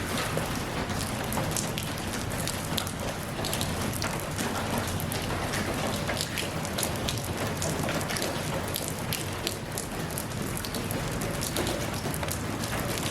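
Steady rain falling, with many individual drops pattering sharply on a surface.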